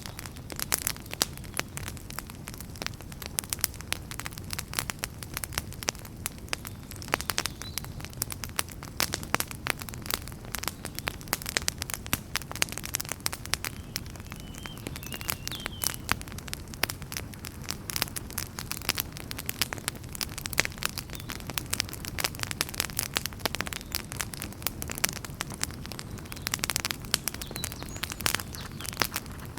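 Wood campfire burning, with dense, irregular crackling and popping throughout over a low, steady rumble.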